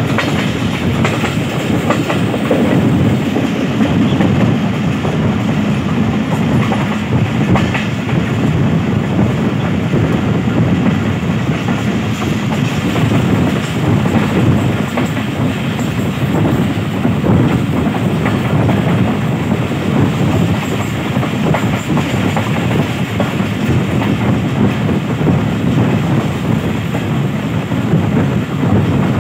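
Pakistan Railways passenger train running at speed, heard from the open side of a moving coach: a loud, steady rumble of wheels on the track, with the click of the wheels over rail joints.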